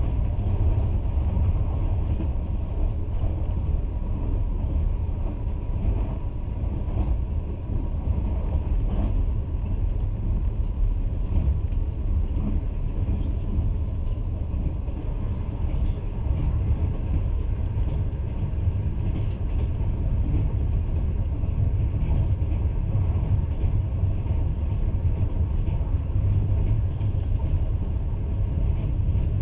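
Passenger train moving along the track, a steady low rumble of the wheels on the rails heard from inside the carriage, with a few faint knocks.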